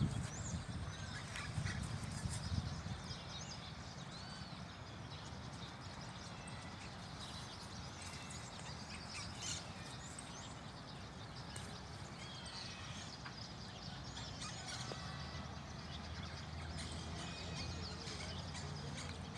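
Several small birds chirping and singing throughout, over a steady low rumble, with a few louder low thumps in the first three seconds.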